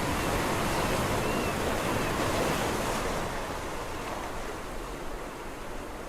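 Sea waves washing onto a shore: a wave surges in and then slowly recedes, the wash easing off over the last few seconds.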